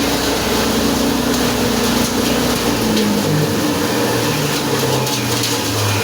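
Posho mill (maize grinding mill) running loudly with a steady rush of noise, under a hum that falls in pitch in steps over the seconds.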